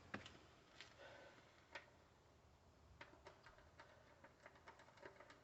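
Near silence with a few scattered faint light clicks and taps, one a little clearer just under two seconds in.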